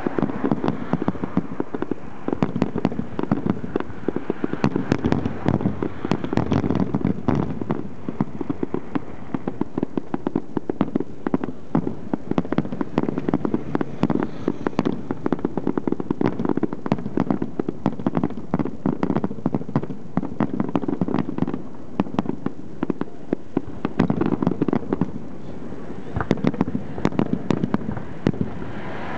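Aerial fireworks going off: a dense, continuous crackling and popping of many bursts, over a steady low rumble.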